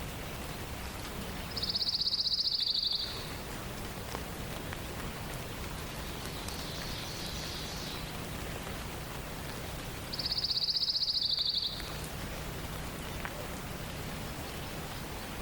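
A songbird singing a rapid, even, high-pitched trill about a second and a half long, twice about nine seconds apart, with a fainter trill from farther off in between, over a steady hiss.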